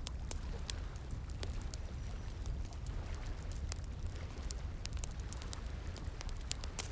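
Wood fire crackling with many sharp, irregular pops and snaps over a steady rush of flowing water.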